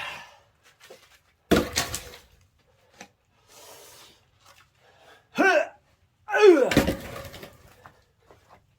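A heavy axe blow into a large firewood log about a second and a half in, then a man's effortful grunts, the second of them around six and a half seconds landing with another hard strike on the log.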